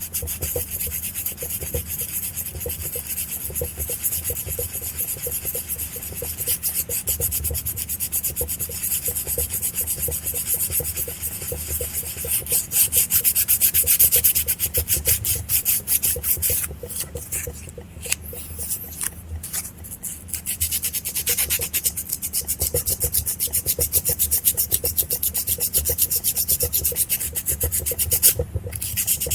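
Fine 400-grit sandpaper rubbed by hand in quick back-and-forth strokes over the corroded contacts of a motorcycle ignition switch, cleaning off rust. The strokes ease off for a couple of seconds past the middle and pause briefly near the end.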